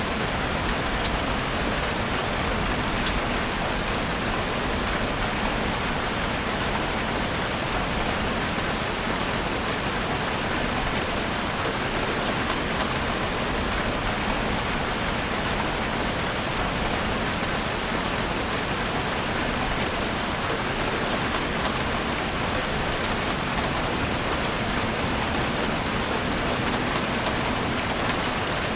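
Heavy rain falling steadily on a roof, a dense even patter with fine ticks of individual drops.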